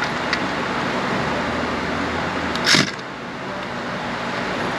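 Wrench work on an exhaust manifold bolt over a steady background hum: a few light clicks at the start, then one short, sharp noise just under three seconds in.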